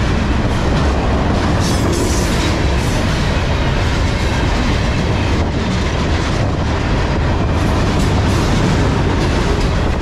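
Loaded Herzog ballast cars of a freight train rolling past close at about 48 mph: a steady, loud rumble of steel wheels on rail, with scattered clacks as the wheels cross rail joints.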